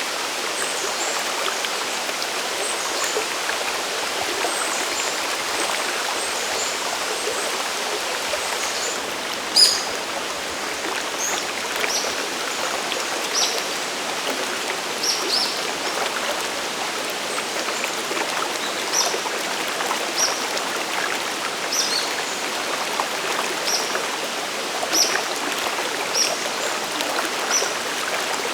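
Steady rushing water of a mountain waterfall and stream. From about ten seconds in, a bird gives short high chirps roughly once a second, one of them sharper and louder.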